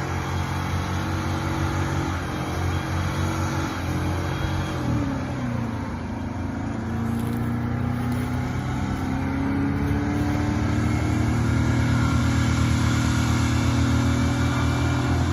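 Van engine revving hard and held at high revs during a burnout test of its newly installed rear differential. The pitch drops about five seconds in, then climbs and holds high again.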